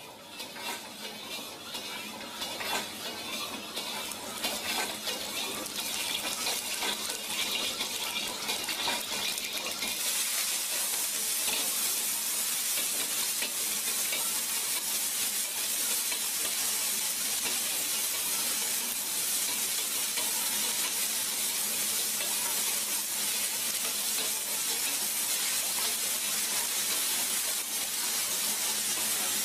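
Food frying with a sizzle in the wok of an automatic stir-fry machine, with quick clicks and scrapes of the stirrer and food against the pan. About ten seconds in the sizzle swells to a steady hiss.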